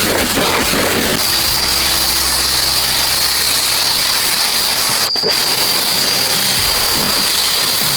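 A loud, steady hiss over a low machine hum, with a thin high whine, broken off for a moment about five seconds in.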